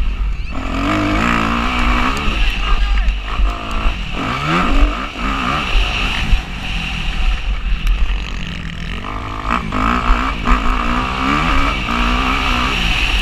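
Motocross bike engine revving up and down as the rider opens and closes the throttle through the gears, with a sharp drop and steep climb in pitch about four seconds in and another easing off near eight seconds. Low wind rumble buffets the onboard camera's microphone throughout.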